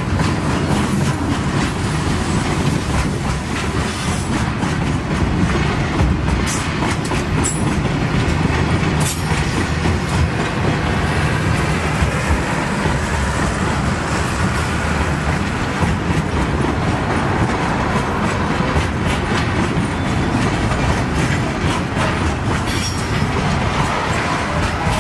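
Freight train wagons rolling steadily past, steel wheels clicking and clattering over the rail joints.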